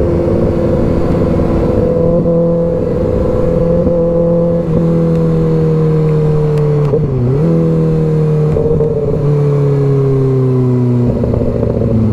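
2024 Kawasaki ZX-6R 636's inline-four engine running as the bike is ridden, its pitch falling slowly, with a brief dip and recovery about seven seconds in.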